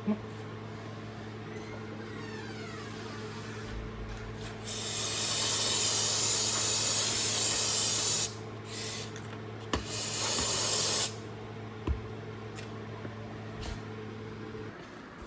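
A small power tool polishing the steel of an old Snap-on ratchet: a steady motor hum, with a loud hissing grind each time the polishing wheel is pressed to the metal. The grind comes three times, a long pass of about three and a half seconds, a brief touch, then about a second more. The motor stops near the end.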